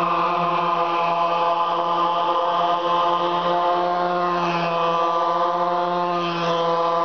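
Small engines running steadily, a constant droning hum. Briefly, about halfway and again near the end, a fainter engine pitch rises and falls as it passes.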